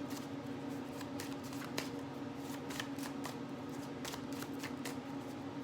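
Tarot cards being shuffled by hand: a quick, irregular run of short flicks and clicks of card on card, done while drawing a clarifier card.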